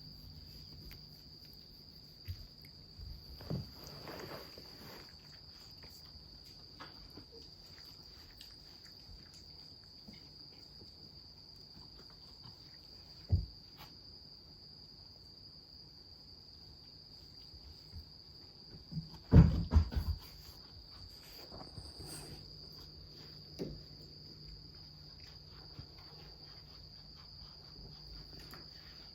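A steady high-pitched tone runs throughout. A few soft bumps and knocks sit over it: one early, one sharp knock in the middle, and a louder cluster of thumps about two-thirds of the way through.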